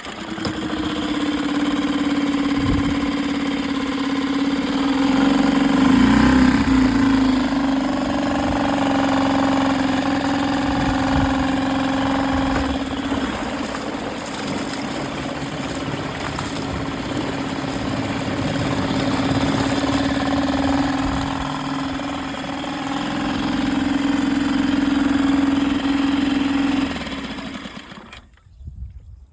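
Yamaha 2-horsepower outboard motor catching and running steadily, its speed rising and falling a little, then shut off a second or two before the end.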